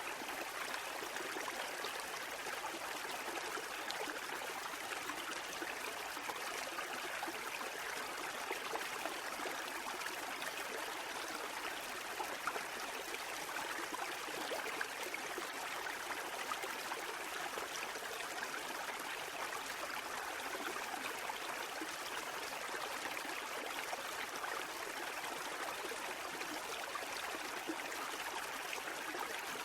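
Steady rush of running water, an even hiss with small splashy flickers and no rise and fall of breaking waves.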